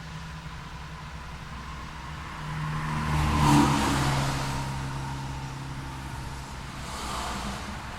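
Street traffic: a motor vehicle drives past close by, loudest about three and a half seconds in and then fading, over a steady rumble of engines and tyres.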